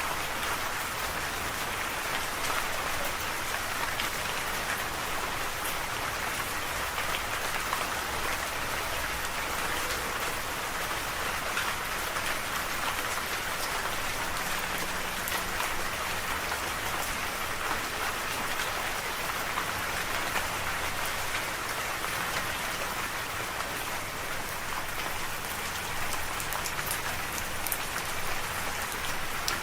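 Steady rain falling, a constant even hiss with scattered fine drop ticks on surfaces.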